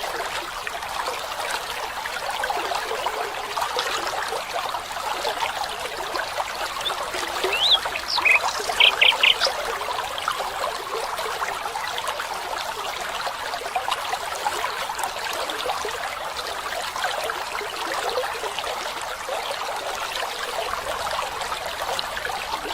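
Stream water trickling and babbling steadily, with a few short high chirps about eight seconds in.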